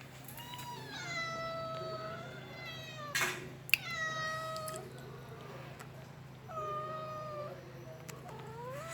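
Domestic cat meowing: four long, drawn-out meows. Two sharp knocks come near the middle.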